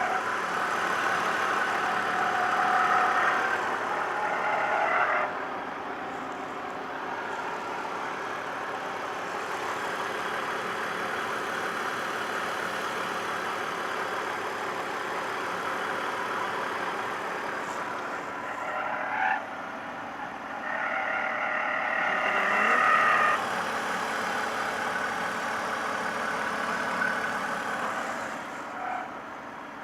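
A BMW squeaking: a high squeal comes twice, for about five seconds at the start and for about three seconds some twenty seconds in, over the car's steady running noise.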